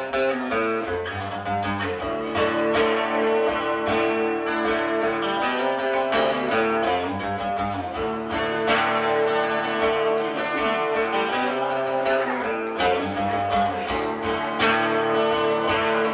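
Acoustic guitar strummed, chords ringing between the strokes.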